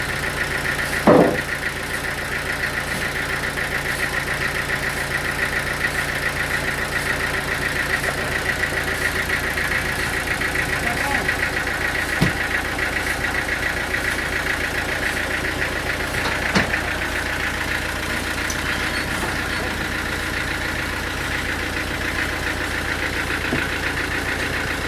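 An engine running steadily at idle, with a sharp knock about a second in and a couple of fainter knocks later.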